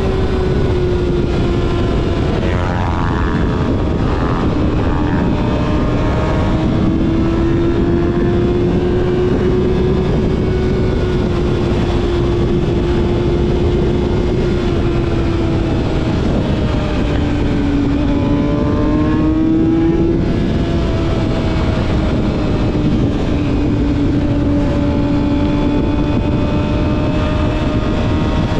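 Yamaha YZF-R6's inline-four engine through a full aftermarket exhaust system, running at a fairly steady engine speed under way, with heavy wind rush. The engine note sags and picks up again a little a few times, around three seconds in and again near twenty seconds.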